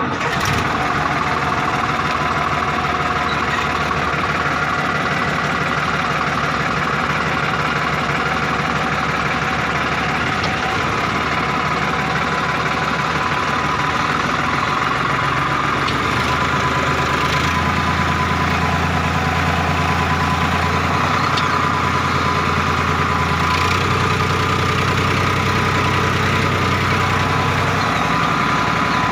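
Combine harvester's diesel engine running steadily, with a constant high whine over it; the low engine note shifts a few times in the second half.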